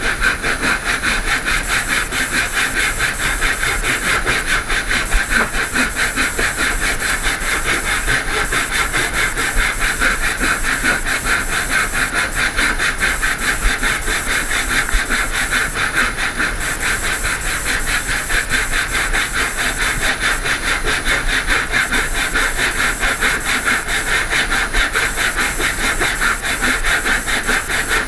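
A saw cutting through a piece of 2x4 softwood lumber: a steady, unbroken rasping hiss.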